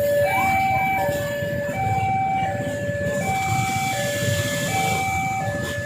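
Railway level crossing's electronic warning alarm sounding, a steady two-tone alternation between a lower and a higher pitch, switching about every three-quarters of a second, with a low rumble of traffic beneath.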